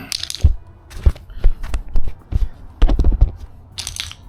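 Clattering knocks and crinkling from handling a bicycle puncture repair kit: about half a dozen sharp knocks with dull thumps, several close together about three seconds in, and brief crinkles near the start and end.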